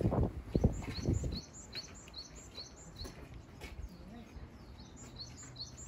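A bird chirping over and over, short high notes about two or three a second. A low rumble sounds under the first second and a half, then stops.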